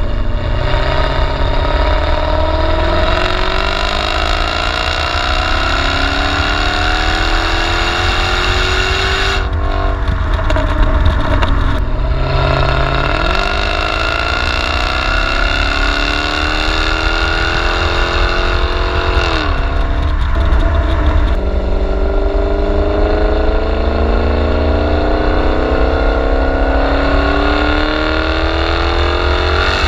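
Jaguar XKR 5.0 supercharged V8 with performance active exhaust, driven on the road: the engine note climbs in pitch through several long pulls and drops back sharply several times at gear changes or lifts off the throttle. A steady low rumble of road and wind noise runs underneath.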